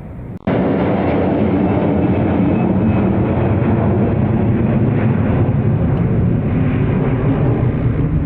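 Loud, steady jet engine noise of an airliner passing low overhead on its landing approach. It cuts in abruptly about half a second in.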